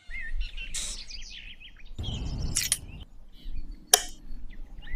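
Small birds chirping repeatedly, with short rushing noises about one and two seconds in and a sharp click about four seconds in.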